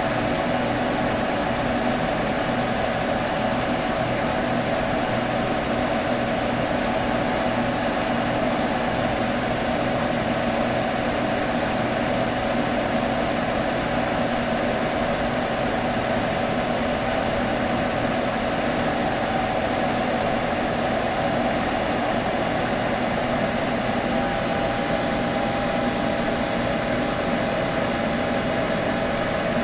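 Computer humming steadily: an even whir of cooling fans with a few held tones running through it, unchanging throughout.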